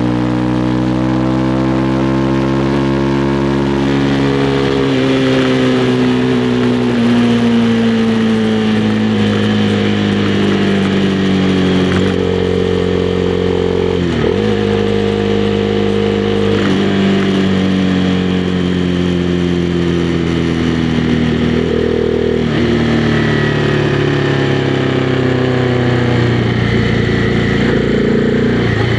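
Honda CB300R's single-cylinder engine running under riding, its revs sinking slowly for long stretches and jumping up abruptly several times, as the motorcycle slows and shifts down.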